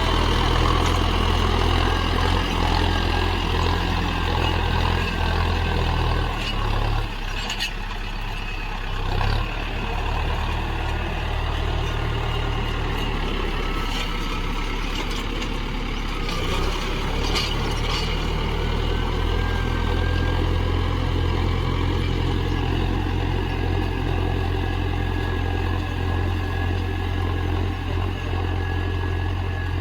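Tractor diesel engine running steadily under load while pulling a plough, easing off briefly twice. A few sharp knocks are heard over the engine.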